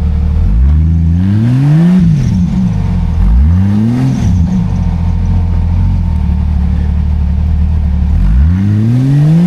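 Old Jeep Cherokee's engine at a low idle, revved up three times, each time rising in pitch and dropping back, as it is driven at an off-road obstacle.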